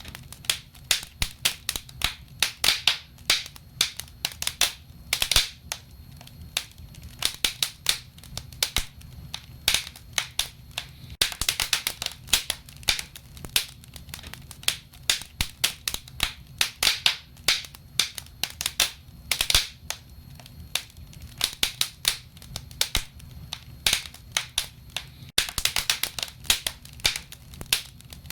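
Wood fire burning in a fireplace, crackling and popping: irregular sharp snaps, several a second with some louder pops, over a soft low rush of flame.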